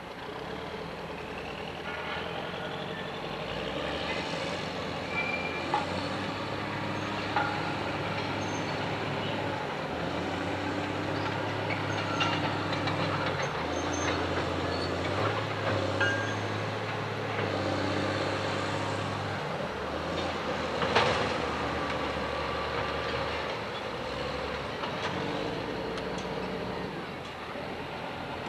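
Diesel locomotive engine running with a low drone that shifts in pitch in steps, and several sharp metallic clanks, the loudest about two-thirds of the way through.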